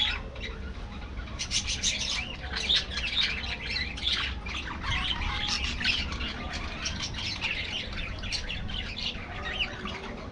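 A flock of budgerigars chattering, many overlapping chirps and short squawks with no pause.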